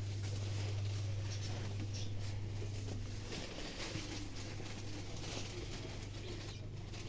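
Light rain pattering in small scattered drops, over a steady low hum.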